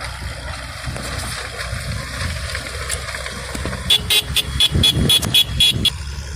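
A vehicle horn tooted in a quick run of short high beeps, about four a second for two seconds, starting about four seconds in, over a steady low rumble of engine and wind.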